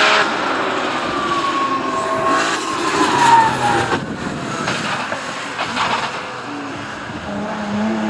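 Hillclimb race car engine running hard, its pitch falling steadily over the first few seconds as it passes or slows. A lower engine note comes in near the end.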